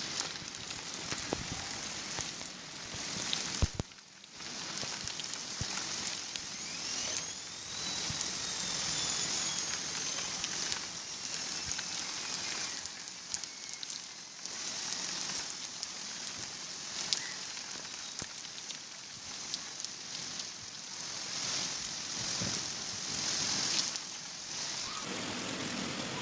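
Heavy rain pouring down in a steady hiss, broken off sharply about four seconds in and then going on. A faint whistle-like tone rises and then slowly falls in pitch over several seconds in the middle.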